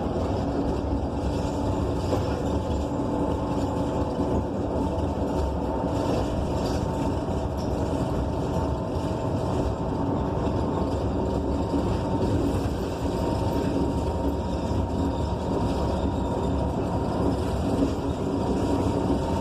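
Cabin ride noise of a 2015 Gillig BRT Plus transit bus with a Cummins Westport ISL G natural-gas engine and Allison B300R automatic transmission: a steady hum of engine, drivetrain and road noise heard from inside the bus.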